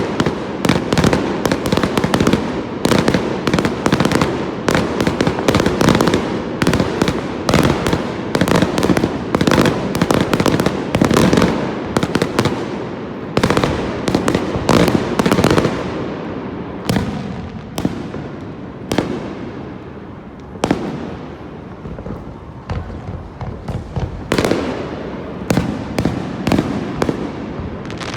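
Aerial fireworks display bursting overhead: a rapid, near-continuous barrage of bangs that thins out for a few seconds past the middle, then picks up again.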